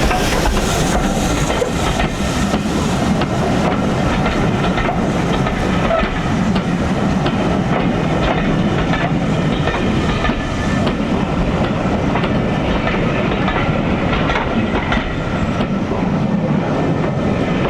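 Train running along the line at a steady pace, wheels clicking over the rail joints under a constant rumble.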